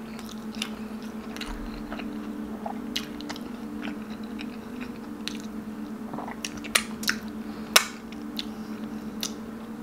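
Close-miked chewing and wet mouth clicks and smacks of someone eating stewed pork leg by hand, with the sharpest smacks a little after halfway. A steady low hum runs underneath.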